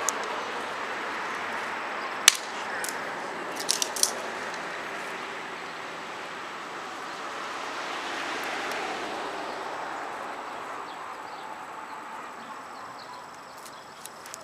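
Wood bonfire burning with a steady rushing sound and sharp crackling pops: a single pop about two seconds in, a few close together around four seconds, and more near the end.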